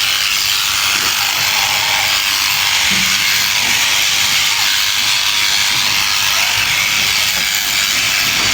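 Electric sheep shears running steadily with an even buzz while shearing fleece.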